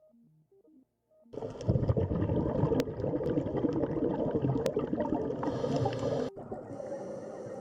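Underwater water sounds: loud bubbling and gurgling with a deep rumble, starting suddenly about a second in and changing abruptly near the end, with a couple of sharp clicks.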